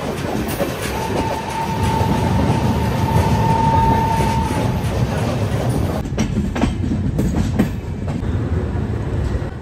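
Passenger train coach running along the track, heard at an open door: a loud rumble of wheels on rail, with a steady high tone for about three and a half seconds near the start. In the second half, sharp clicks come as the wheels run over rail joints and points.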